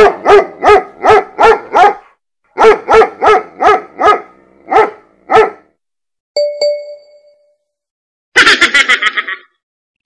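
A dog barking quickly, about a dozen yaps in two runs, then a single bright bell-like ding about six seconds in, and near the end a short, rapidly pulsing pitched sound effect.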